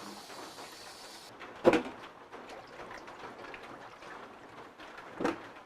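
Running tap water hissing while pig tails are rinsed, shut off about a second in. Two short, sharp sounds follow, about three and a half seconds apart.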